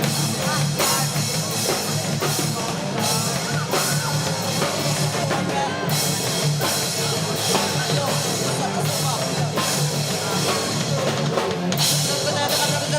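Hardcore punk band playing live, loud: a pounding drum kit with kick drum and cymbals, over bass and guitar.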